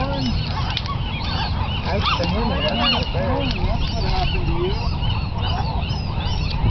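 A colony of gulls calling: many short squawks and cries overlapping at once, over a steady low rumble.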